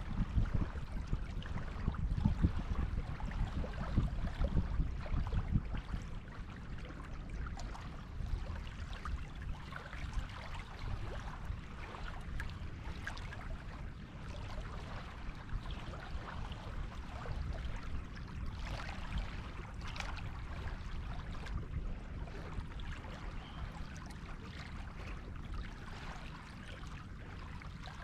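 Waves washing on a beach, a continuous fizz of surf over a low rumble. The rumble is louder and uneven for the first six seconds, then settles.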